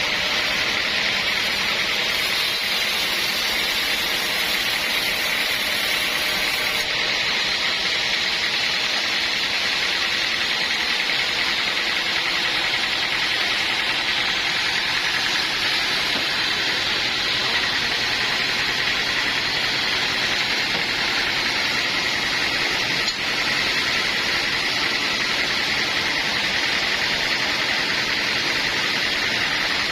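Sawmill running steadily: a constant hiss with a faint engine hum beneath.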